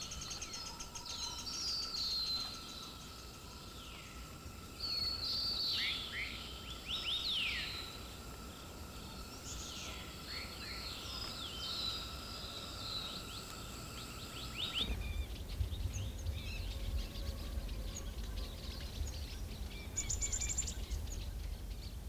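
White-eared sibias singing in a series of sweeping whistled phrases over a steady insect drone. About 15 seconds in, this gives way to a low wind rumble with faint chirps and a brief high trill near the end.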